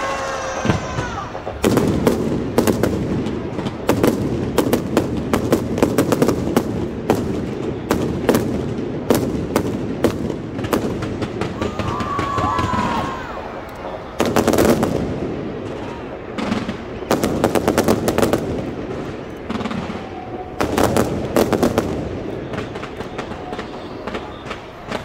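Fireworks display: rapid volleys of sharp cracks and bangs from bursting aerial shells, coming in dense clusters with short lulls between them, over the murmur of a watching crowd.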